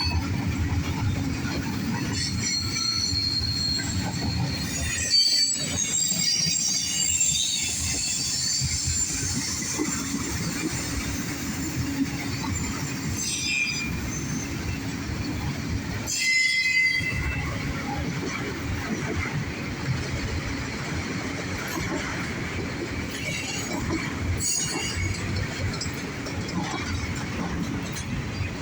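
Freight cars of a CSX mixed manifest train rolling past close by with a steady rumble. High-pitched wheel squeal comes in over the first several seconds, and a few sharp clanks sound now and then as the cars go by.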